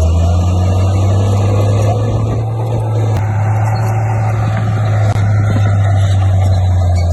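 Komatsu D58P bulldozer's diesel engine running steadily under load, a deep, even drone, with two brief sharp clicks about three and five seconds in.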